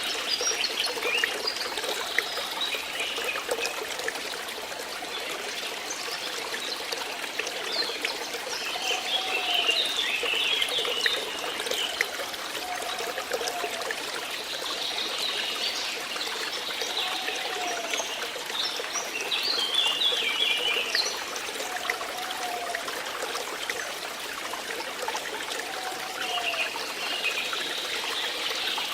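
Water flowing and trickling steadily. A short call-like sound repeats about every four seconds, and there are two patches of higher chirping.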